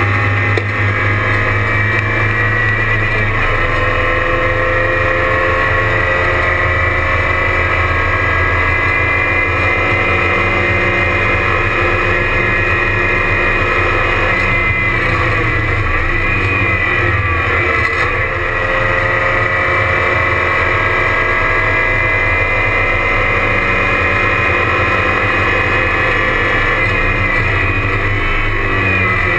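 Porsche 944 race car's four-cylinder engine running hard, heard from inside the stripped cabin. Its pitch climbs and drops repeatedly as it is driven through the gears at racing speed, over road and wind noise.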